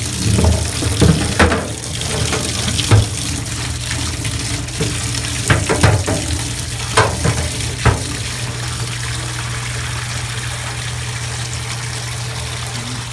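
Hot water spraying and running through a refrigerated display case as it is washed out, a steady rushing hiss over a steady low hum, with a few sharp knocks along the way.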